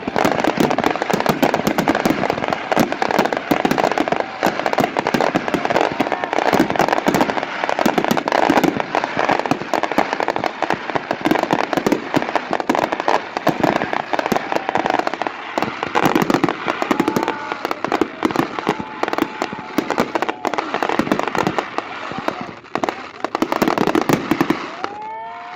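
Fireworks finale: a dense, continuous barrage of crackling and popping reports, thinning out just before the end.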